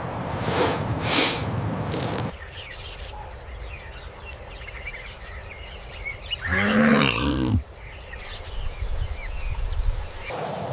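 A large animal gives one loud, pitched call lasting about a second, over faint background chirps. A rushing noise at the start cuts off about two seconds in.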